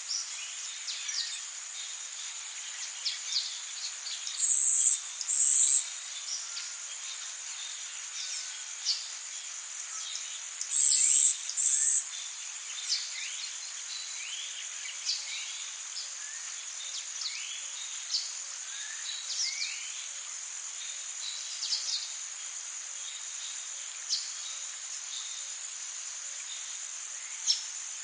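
Tropical rainforest insect chorus: a steady high drone with two pairs of louder, short buzzing bursts, and many short bird chirps and whistles scattered over it.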